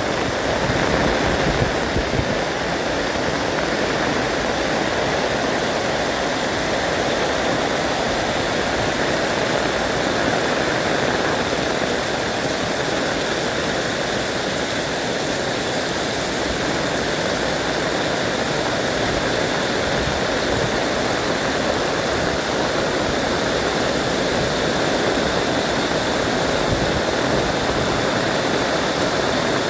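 Heavy rain pouring down steadily, an even dense hiss with no breaks.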